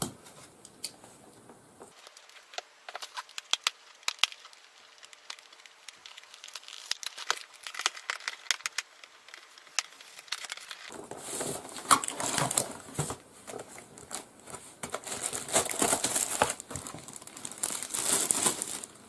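Plastic packaging crinkling and rustling as a new keyboard is unwrapped, with scattered sharp clicks and taps in the first half and denser crinkling and tearing in the second half.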